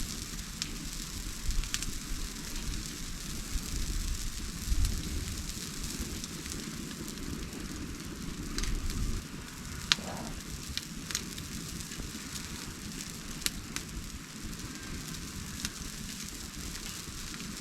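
Campfire burning: a steady hiss of flames with scattered sharp crackles and pops of the wood, one louder pop about ten seconds in.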